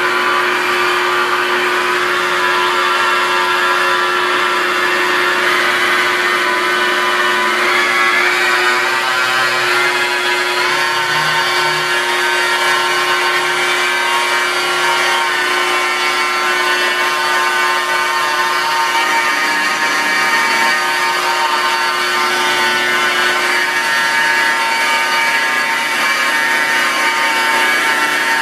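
Rotary car polisher running steadily at about 1500 to 2000 RPM, its foam composite pad working rubbing compound into the paint; the motor's whine wavers a little in pitch as the pad is pressed and moved.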